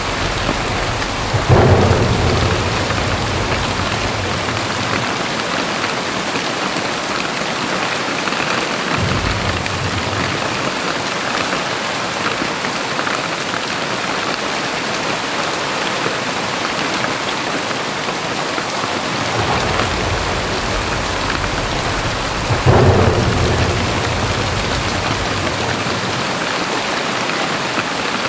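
Very heavy rain falling steadily. Two sudden deep rumbles break in, a bit under two seconds in and again about 23 seconds in, with weaker low swells between them.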